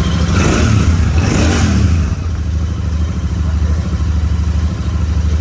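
Royal Enfield Super Meteor 650's parallel-twin engine and exhaust, revved twice briefly in the first two seconds, then settling back to a steady idle.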